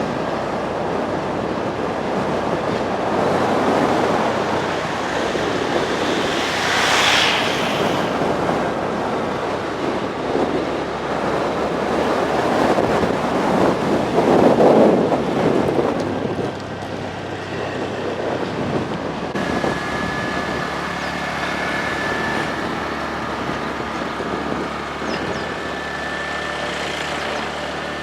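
Wind rushing over the microphone on a moving motorcycle, with the bike's engine running underneath. The wind swells twice and then eases in the last third, where a steadier engine tone comes through.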